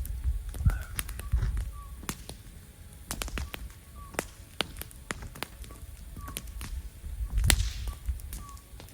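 Wood campfire crackling, with irregular sharp pops and snaps. There are low rumbling bursts near the start and again about seven and a half seconds in.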